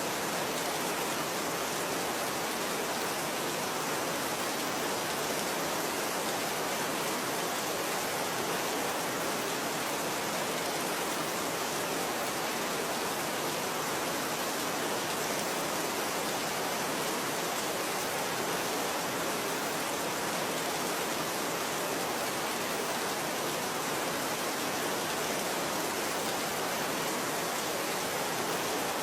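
Steady rain, an even, unchanging hiss with no separate drops or other sounds standing out.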